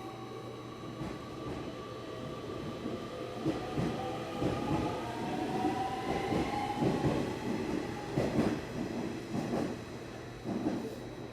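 Nishitetsu electric train running, its motors giving a whine that rises slowly in pitch as it picks up speed. Wheels clatter and knock on the rails, growing louder partway through.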